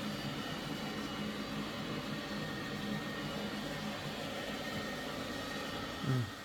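Samsung VR50T95735W robot vacuum running, with a steady whooshing hum and a faint high whine. A short low sound falling in pitch comes near the end.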